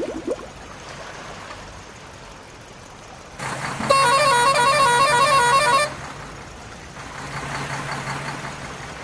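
Electronic horn tune from a toy vehicle's sound chip: quick stepping beeps for about two seconds, starting about four seconds in, over a low steady hum.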